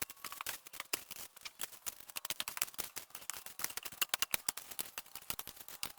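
Many quick, irregular small clicks and snaps, some louder than others, with no steady sound under them.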